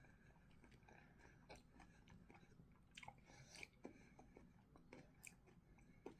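Faint chewing of a mouthful of coleslaw and boiled egg: irregular soft mouth clicks and wet squelches, a little busier from about halfway through.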